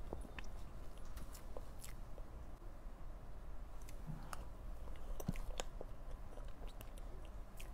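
Chewing and mouth sounds of someone eating cream-filled sponge cake, with a few short sharp clicks scattered through, likely from the spoon.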